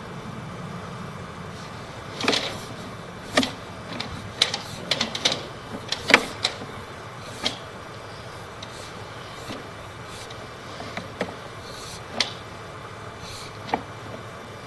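A steady low hum with scattered sharp knocks and clicks, about ten in all, most of them between two and seven seconds in.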